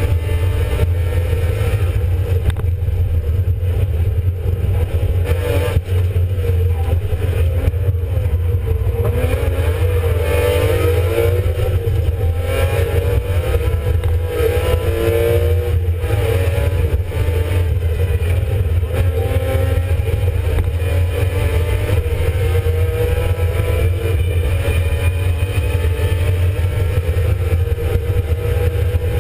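BMW E36 Compact rally car's engine heard from inside the cabin, running hard on a special stage. Its note climbs and drops again and again as the driver accelerates, shifts and lifts.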